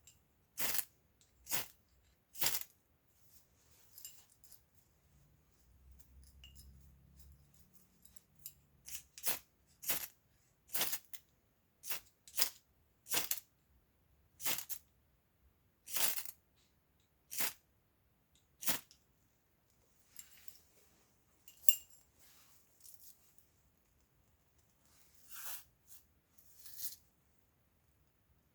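Ferrocerium rod fire starter scraped over and over with its striker to throw sparks onto fatwood. Short, sharp rasps come about one a second, with a pause of a few seconds between the third and fourth strokes and a longer one after the fourth, and softer, scratchier strokes near the end.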